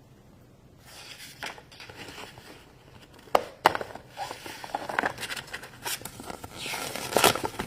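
Plastic toy packaging crinkling and rustling as it is handled and opened, with scattered small clicks and taps; it starts about a second in.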